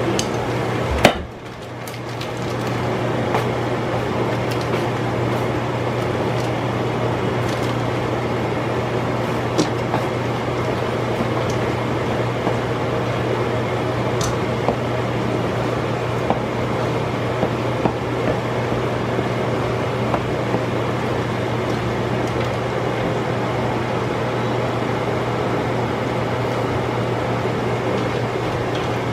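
Chicken frying in hot oil, a steady sizzle with scattered small pops, over a steady low hum. A single sharp knock comes about a second in.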